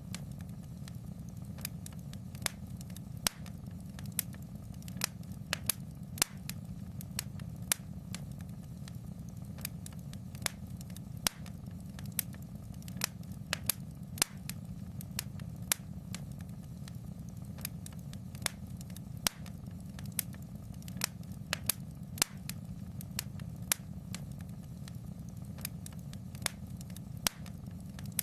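Wood fire crackling in a fireplace: sharp pops and snaps at irregular moments, roughly two or three a second, over a steady low rumble.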